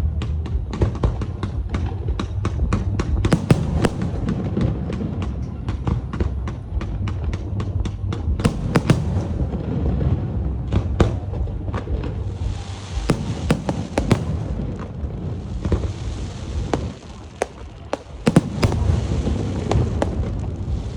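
Fireworks display: a rapid string of sharp bangs from bursting aerial shells, several a second, thinning out after about eight seconds into scattered bangs with stretches of hissing crackle, over a continuous low rumble.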